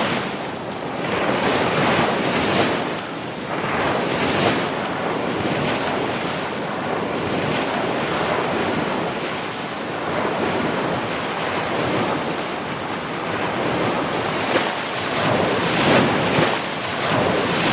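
Ocean surf: waves breaking and washing in as a continuous rush that swells and eases every few seconds, with louder surges near the start and again near the end.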